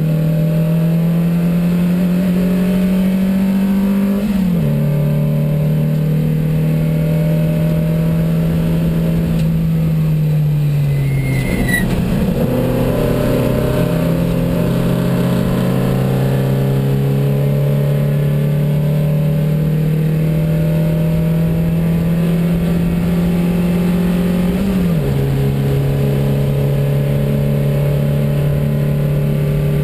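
Porsche 914's 2270cc flat-four racing engine heard from inside the cabin under hard acceleration. The pitch climbs slowly and drops sharply at two upshifts, about four seconds in and near twenty-five seconds. Around ten to twelve seconds in the engine falls off as the driver lifts, then pulls again.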